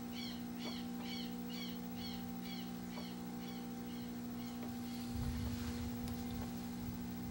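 A bird calling in a quick series of short, high chirps, about two a second, that stops about four and a half seconds in, over a steady electrical hum. A brief low rumble comes about five seconds in.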